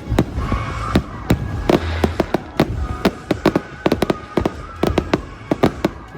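Fireworks going off: a rapid, irregular run of sharp bangs and crackles, several per second.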